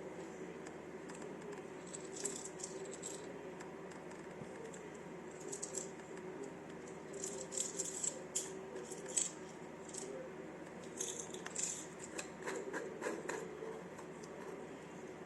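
Pills rattling inside a 3D-printed plastic pill bottle, with small plastic clicks as it is handled, in scattered bursts that are busiest in the middle and later part. A steady low hum runs underneath.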